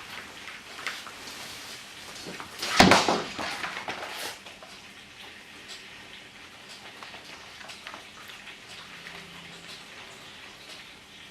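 A sharp clatter about three seconds in, like objects knocking together, followed by scattered light clicks and taps.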